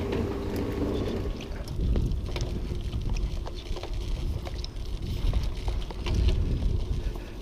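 Castello Vetto racing bicycle being ridden: a low, uneven rumble of rolling and wind on the microphone, with scattered clicks and creaks from the back of the bike.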